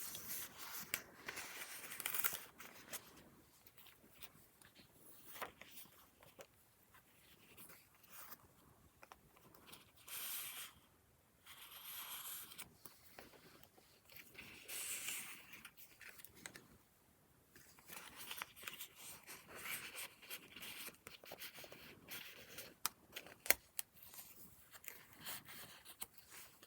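Paper pages of a handmade junk journal being turned and handled: irregular rustling swishes and crinkles with occasional sharp clicks.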